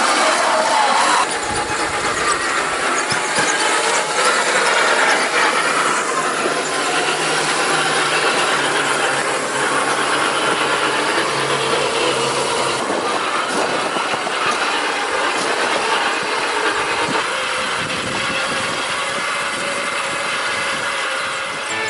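A 1/6 scale radio-controlled Willys Jeep driving off-road: its motor and gear drive running continuously, with tyres grinding and crunching over rough ground.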